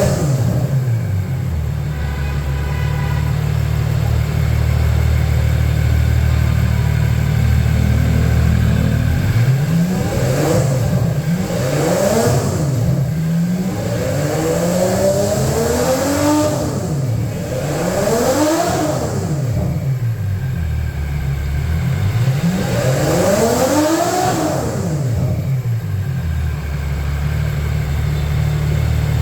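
Ferrari F140 V12 engine idling steadily, then revved several times in a row, each rev climbing and falling back, before settling back to idle near the end.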